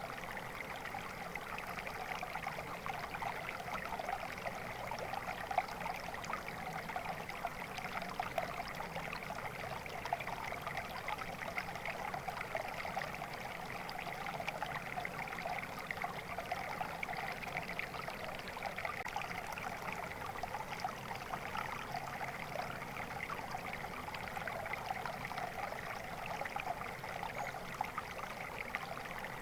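Stream water flowing steadily, an even babbling splash with no break or change.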